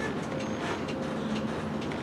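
Freight train rolling past: a steady rumble of wheels on rail, with short creaks and squeaks from the cars.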